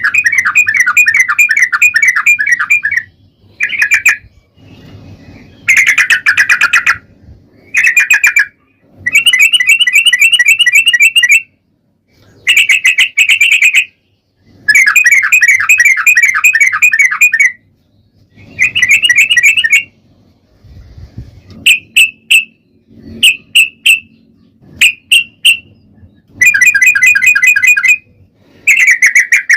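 Yellow-vented bulbul (trucukan) singing its fast, rambling 'ropel' song: loud bursts of quick bubbling trills, each a second or more long, with short pauses between them. Partway through come a few short, separate chirps before the long trills resume.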